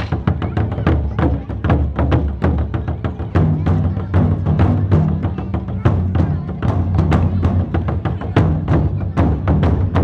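Japanese taiko drums played in a fast, driving rhythm: many sharp stick strikes over the deep, sustained boom of large drums.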